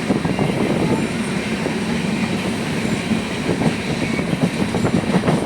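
A moving train running along the track: a steady rumble with a rapid, irregular clatter of wheels on the rails, the clatter coming thicker in the second half.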